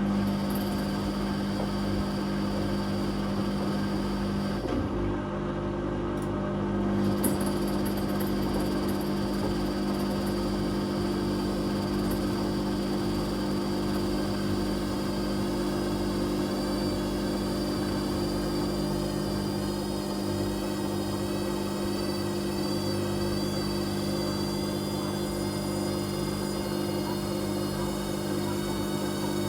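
Whirlpool Indiana 1400 washing machine running, its drum motor giving a steady hum with a higher whine that grows stronger in the second half.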